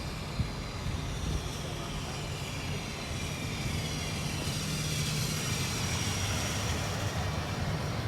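Steady engine and road noise heard from inside a moving car, with one sharp click about half a second in.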